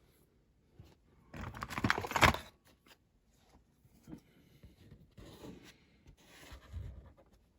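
Small hand-work noises on a workbench: a loud rasping scrape lasting about a second near the start, then quieter scrapes and clicks as small diecast model parts and tools are handled.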